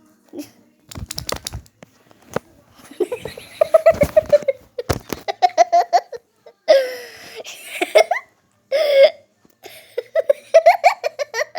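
Children laughing and giggling in repeated short bursts, with a few sharp knocks in the first few seconds.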